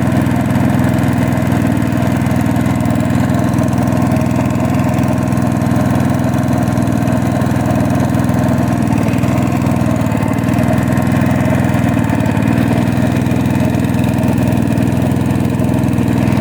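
Small motorboat's engine running steadily at an even speed, with no change in pitch or level.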